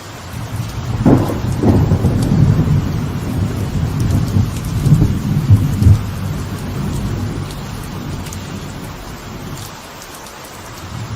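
Steady light rain on a veranda with a thunderclap: two sharp cracks about a second in, then a low rumble that rolls on for several seconds and fades near the end.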